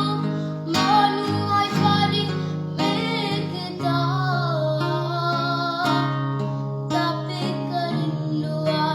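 A song: a solo voice sings a wavering melody over acoustic guitar accompaniment.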